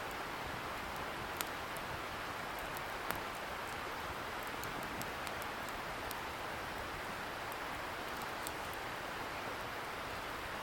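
Wood campfire crackling with scattered sharp pops, two louder ones in the first few seconds, over a steady hiss from a distant river.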